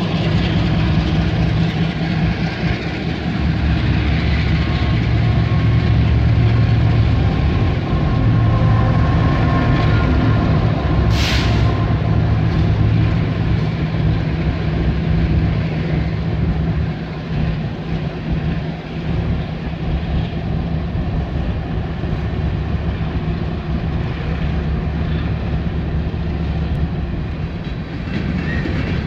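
Freight train's open-top hopper cars rolling past close by: a steady rumble of steel wheels on rail, with one short sharp hiss about eleven seconds in.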